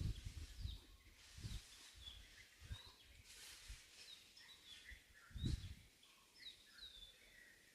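Small birds chirping: many short, falling calls scattered throughout, with a few brief low rumbles, the loudest about five and a half seconds in.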